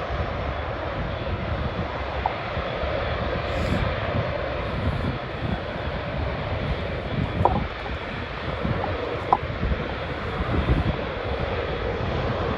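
Jet airliner engines running steadily at a distance, with gusty wind buffeting the microphone and a few brief clicks.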